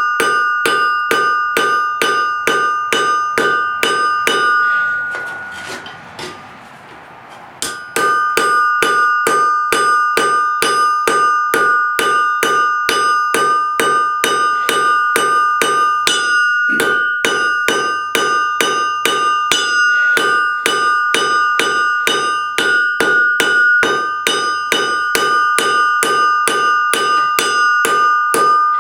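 Blacksmith's hammer striking steel on an anvil in a steady rhythm of about three blows a second, the anvil ringing on between blows. The blows stop for about three seconds a few seconds in, then resume.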